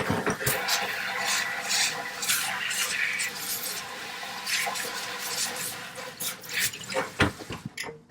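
Water running from a kitchen tap into a sink while a bowl is rinsed and scrubbed out, with knocks and clatter against the sink. The water cuts off shortly before the end.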